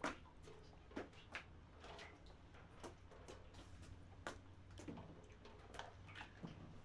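Faint, irregular clicks and light knocks, about a dozen scattered over several seconds, over a low steady hum.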